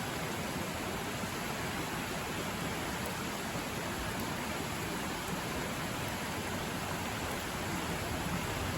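River flowing nearby, a loud steady rush of water.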